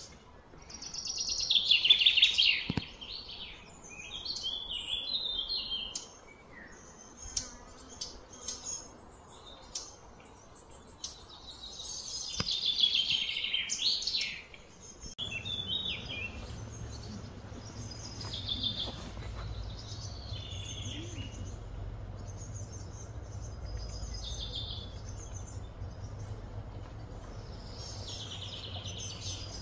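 Birds chirping and calling in repeated bursts, loudest about two seconds in and again around twelve to fourteen seconds in. A steady low hum comes in about halfway through.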